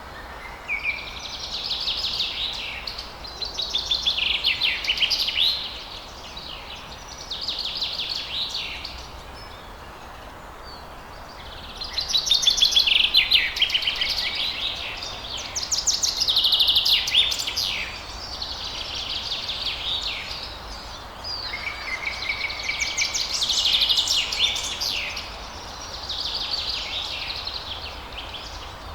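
Songbirds singing a series of short, fast-trilled song phrases, about eight of them with brief pauses between, over a steady faint background hiss.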